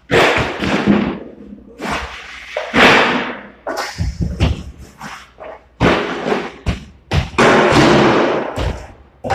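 Drywall being smashed and torn down: repeated heavy thuds and long crunching, crumbling bursts of breaking gypsum board.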